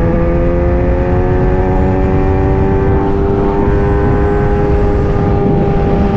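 Kawasaki ZX-10R's inline-four engine running under way, its pitch rising slowly for the first few seconds and then holding steady, over a dense low rumble.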